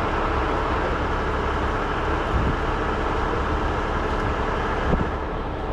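Heavy rotator tow truck's engine running steadily as a low rumble, with a short knock about two and a half seconds in and a sharper one near five seconds.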